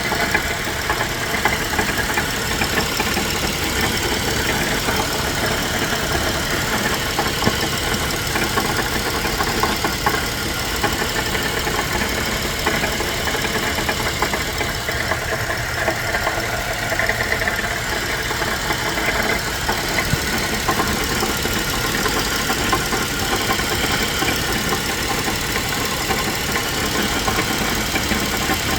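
GMC Acadia engine running with a rapid, steady knocking throughout. The owner wonders whether the inside of the catalytic converter has broken into small pieces.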